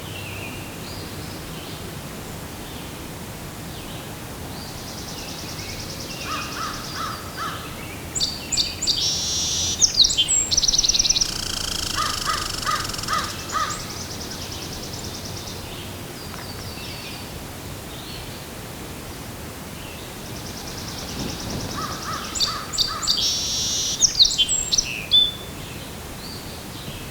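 Wild birds singing outdoors, in two long bouts of rapid, high trilled and repeated notes, the first a few seconds in and the second near the end, over a steady background hiss.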